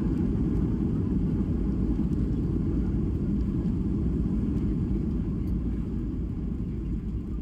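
Airliner cabin noise on approach: a steady low rumble of engines and airflow heard from inside the cabin, easing slightly near the end.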